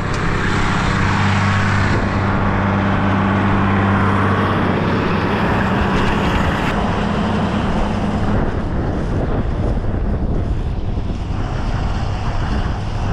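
A tractor pulling a straw baler, its engine running with a steady low drone. The higher-pitched noise eases off after about seven seconds.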